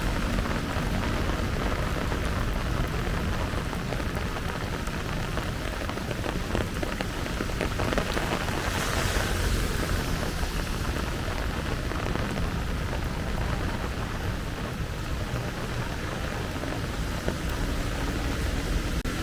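Heavy rain pouring steadily onto pavement and surfaces, with a deep rumble underneath and a hiss that swells briefly about nine seconds in.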